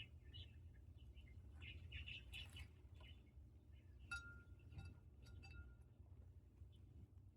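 Sun cheek conure, a colour variant of the green-cheeked conure, making soft scattered chirps, with one longer steady note a little past halfway, over a faint low steady hum.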